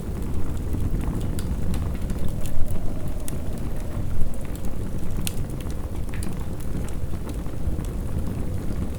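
Wood fire crackling with sharp, irregular pops over a steady low rumble of wind.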